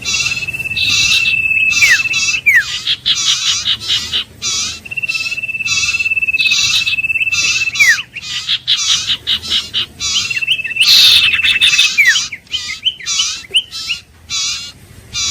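Iora song: several long, level whistles, each ending in a quick downward slur, over a steady run of rapid repeated chattering notes.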